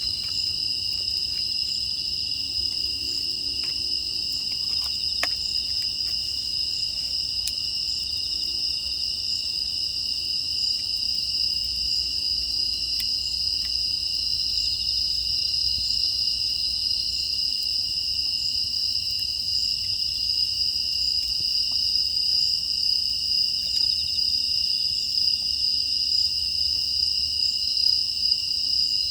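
A dense chorus of crickets and other grass insects singing steadily and high-pitched, with a few faint crackles from a wood fire.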